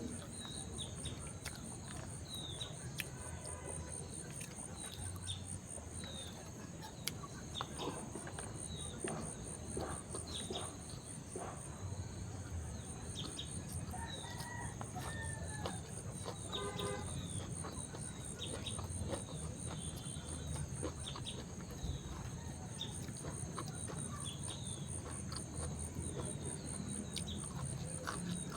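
Chickens clucking over a steady high insect drone with a fast pulsing trill, with many short falling bird chirps throughout.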